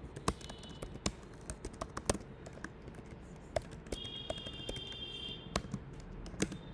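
Typing on a computer keyboard: irregular key clicks, with a faint steady high whine in the background for a second or two past the middle.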